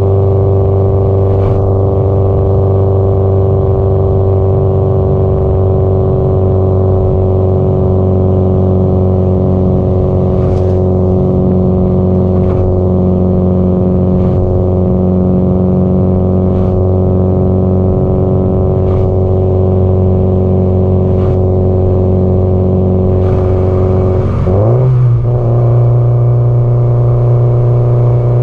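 Subaru Impreza WRX STI (GDB-E) turbocharged flat-four engine and exhaust holding a steady drone at constant cruising speed. About three-quarters of the way through, the note shifts quickly and settles at a higher engine pitch, as the revs jump. Faint ticks come every couple of seconds.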